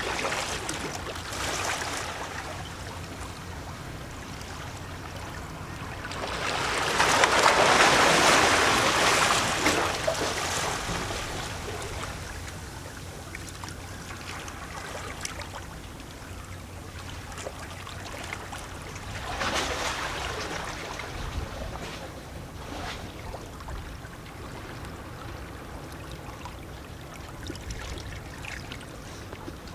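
Small sea waves lapping and sloshing against rocks, with gurgling and splashing; a larger wave surges in about a quarter of the way through and a smaller one about two-thirds through.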